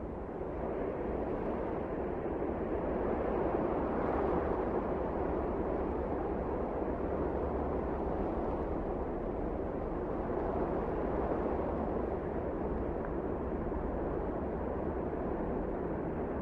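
Wind blowing in a steady, dull rush that swells and eases slowly, building up over the first few seconds.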